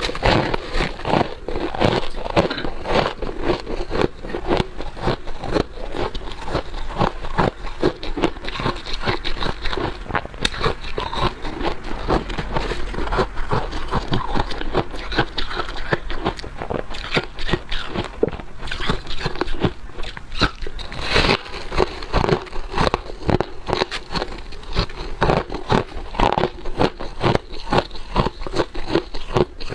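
Close-up crunching and chewing of freezer frost and ice: continuous rapid crackly crunches as the frost is bitten and chewed.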